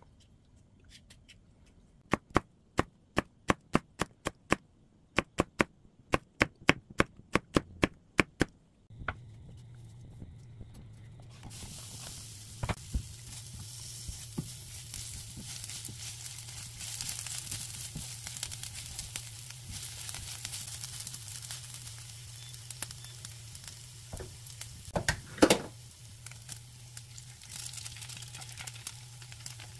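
A quick run of sharp knife chops on a wooden cutting board, about three a second, slicing green onion. Then a steady electric hum from the induction cooktop, and sliced green onion sizzling in hot oil in a nonstick pan, with two sharp knocks near the end as an egg is cracked on the pan's rim.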